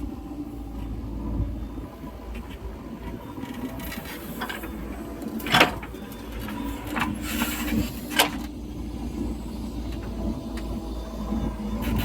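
JCB 3DX backhoe loader's diesel engine running steadily under work, with several sharp metallic clanks and knocks in the middle, the loudest about halfway through.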